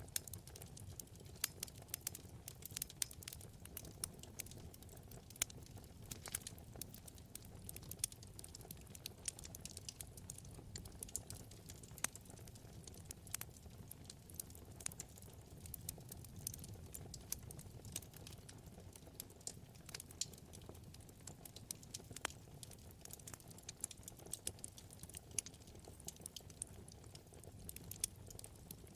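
Wood fire in a fireplace crackling: frequent, irregular sharp pops and snaps over a low, steady rumble of the flames.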